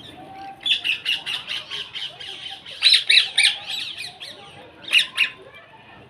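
A flock of birds chirping in rapid, overlapping calls. The calls come in loud bursts and thin out near the end.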